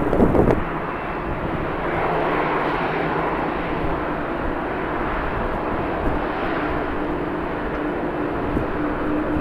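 Jet airliner engines running with a steady roar and a faint steady hum in it, heard across an airfield. Wind buffets the microphone for about the first half second.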